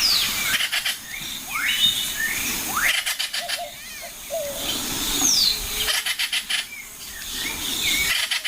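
Wild birds calling: short whistled notes gliding up and down, over and over. Bursts of rapid clicks come three times, about three seconds apart.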